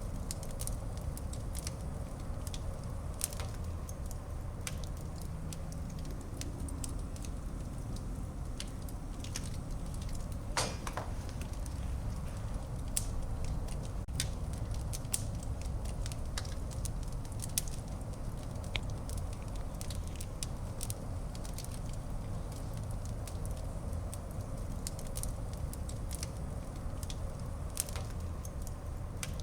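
Fire burning in a fireplace: a steady low rumble of flame with frequent sharp crackles and pops, and a brief hiss about ten seconds in.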